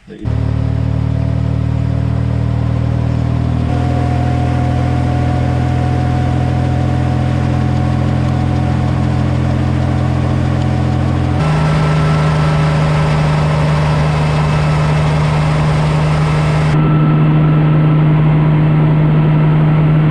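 Helicopter's engine and rotor running steadily, heard from inside the doorless cabin. The steady drone shifts abruptly to a new tone three times.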